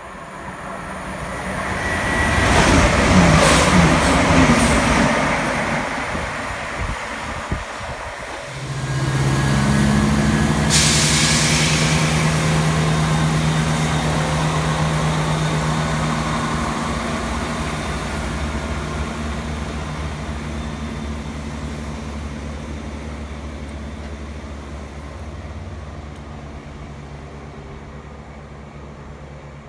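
Diesel train at the platform: a loud rumble with squealing falls away over the first few seconds. About 8 s in, a diesel engine note starts up steadily, with a sharp hiss of air around 11 s. The engine sound then slowly fades away.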